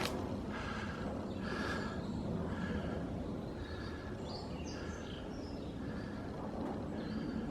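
Footsteps crunching through woodland undergrowth at a steady walking pace, with a few faint bird chirps around the middle.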